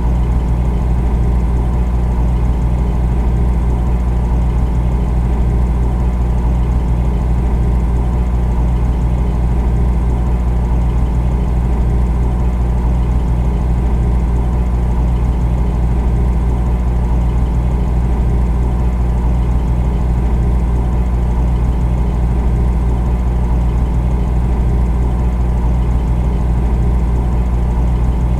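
Refrigerator running with a steady low hum, even and unchanging.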